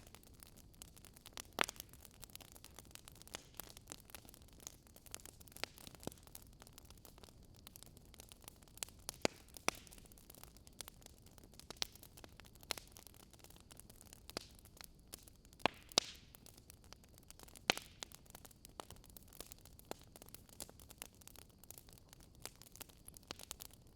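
Wood fire burning in a fireplace: a faint steady hiss with sharp, irregular crackles and pops from the burning logs, a few louder snaps among them.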